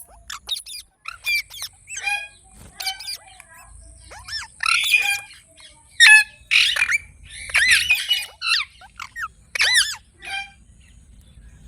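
Green parrot calling: a string of short chirps and high, arching screeches, with a burst of loud, harsh squawks in the middle.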